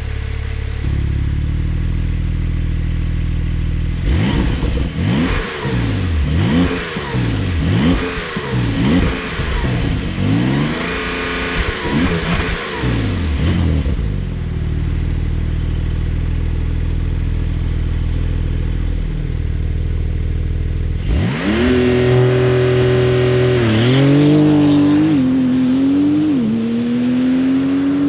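2021 Porsche 911 Turbo S's 3.8-litre twin-turbo flat-six idling, then revved in a string of quick blips for about ten seconds before settling back to idle. Near the end it pulls hard under acceleration, the pitch climbing and dropping back at each of several quick upshifts.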